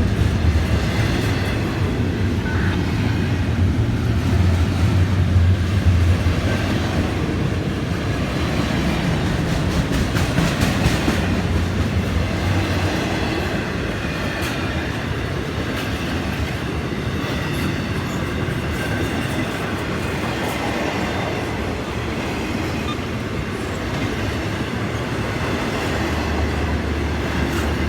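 Florida East Coast Railway freight train's cars rolling past, a steady rumble of wheels on rail with repeated clicks over the rail joints.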